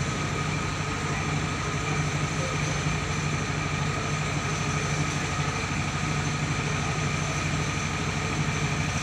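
Mobile rice mill running steadily: its engine hums with a fast even pulse, and a steady high whine from the milling machinery rides over it.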